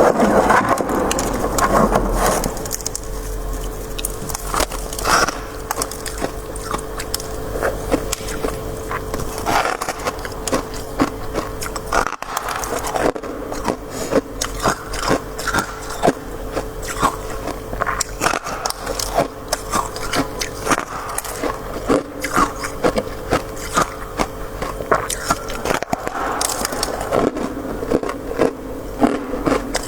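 Crisp crunching of freezer frost (soft shaved ice) being bitten and chewed close to the microphone, a dense run of small irregular crackles.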